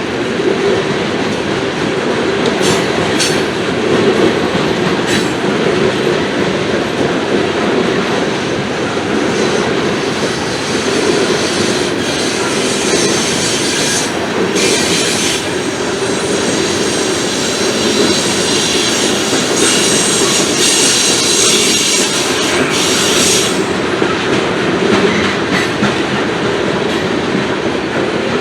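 Coal train's freight cars rolling slowly past on the rails: a steady rumble of wheels on track with some clicking of wheels over rail joints. High-pitched wheel squeal rises briefly about halfway through and again for a few seconds later on.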